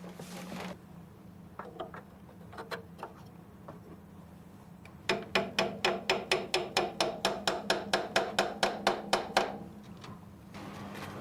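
A hammer striking in a rapid, even series, about six blows a second for some four seconds starting about halfway through, after a few scattered knocks. A steady low hum lies underneath.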